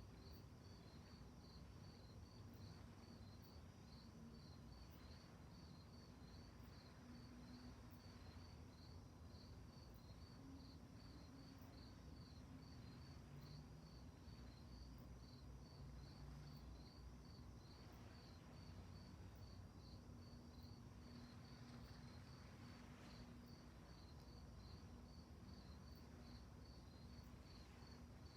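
Crickets chirping faintly at night in a steady, even rhythm of about two to three chirps a second, over a low rumble.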